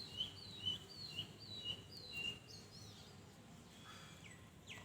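A bird calling faintly with short high two-note chirps, a higher note then a lower one, repeated about twice a second, then fainter and more scattered after a couple of seconds.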